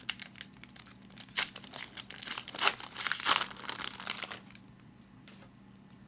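Foil wrapper of an Upper Deck SP Authentic hockey card pack being torn open and crinkled by hand. The crinkling dies away about four and a half seconds in.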